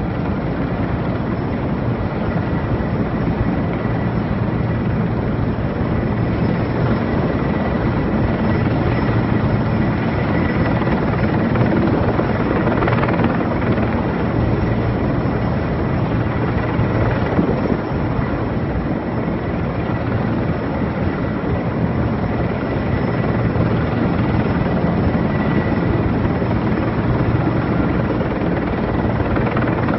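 Erickson Air-Crane heavy-lift helicopter hovering close by, its rotor beating steadily under turbine noise, with a faint high whine held throughout.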